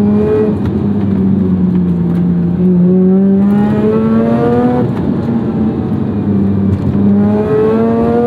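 Mazda RX-8's 1.3-litre twin-rotor rotary engine, fitted with aftermarket headers, midpipe and an HKS catback exhaust, heard from inside the cabin while driving. The engine note climbs slowly in pitch as the car pulls in gear, falls back a few times, then climbs again over steady road noise.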